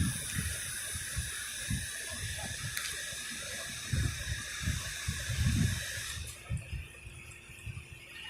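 Wind buffeting the microphone in irregular low gusts, over a steady hiss that cuts off suddenly about six seconds in.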